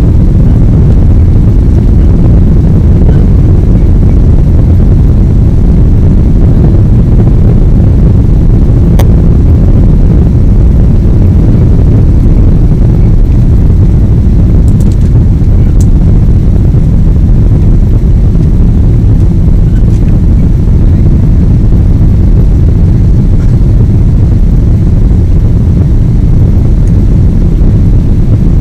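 Boeing 777 jet engines and airflow: a steady, loud low rumble that holds an even level throughout, with a faint click about nine seconds in.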